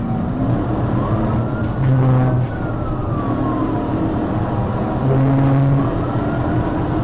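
Police siren on a slow wail, rising and falling about every four seconds, over the engine and road noise of a car driving at speed.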